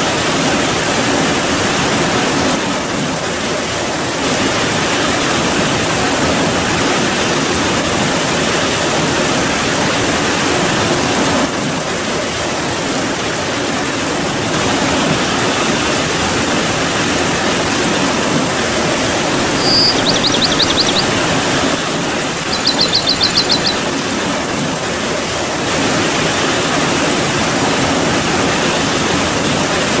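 Steady, even hiss of heavy rainfall. About two-thirds of the way through come two short, rapid high-pitched trills, a couple of seconds apart.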